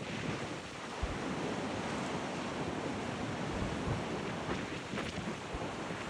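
Strong gusting wind buffeting the microphone in low thumps, over a steady rush of wind and breaking sea.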